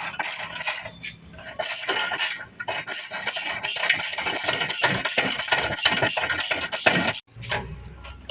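Metal hand tools clinking and rattling against car parts in quick, irregular strikes, cutting off suddenly near the end.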